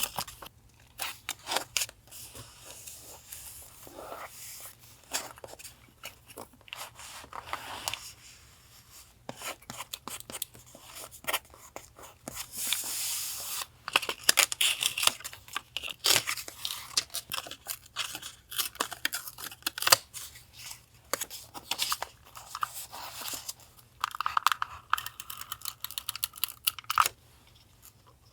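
Paper being torn and handled for a collage journal: irregular crisp rips, rustles and small clicks, denser in the middle.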